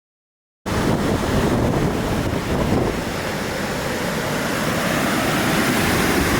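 Ocean surf on a beach mixed with wind on the microphone: a steady rush of noise that starts abruptly just under a second in.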